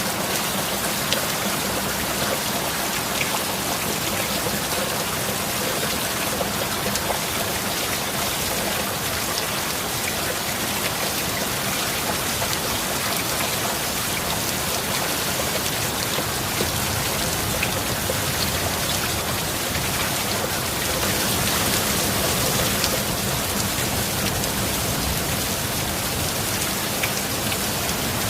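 Steady heavy rain falling, with scattered sharp drop ticks in an even hiss. It swells slightly a little past two-thirds of the way through.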